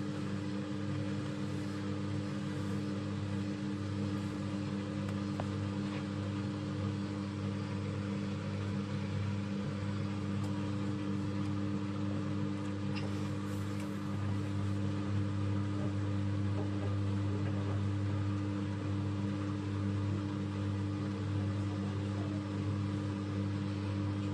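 Bosch Avantixx 6 front-loading washing machine running with a steady, unchanging hum.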